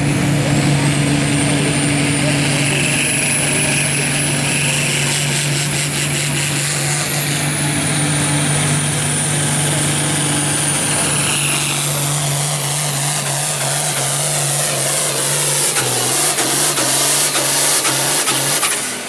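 Hot farm class pulling tractor's turbocharged diesel engine running hard under full load while dragging a weight-transfer sled, with a high turbo whistle over the engine. Over the last few seconds the engine tone sags and breaks up as the pull slows.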